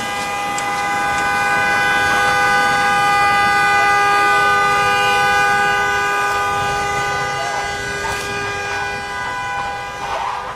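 A vehicle horn sounding continuously, a steady two-note chord held unbroken throughout.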